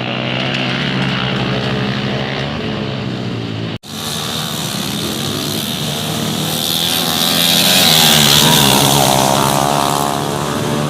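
Motorcycle engines running. The sound cuts off sharply just under four seconds in, picks up again, then swells to its loudest about eight seconds in and eases off.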